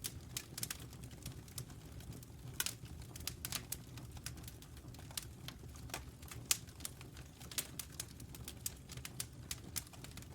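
Crackling fire: irregular sharp snaps and pops, several a second, over a steady low rumble.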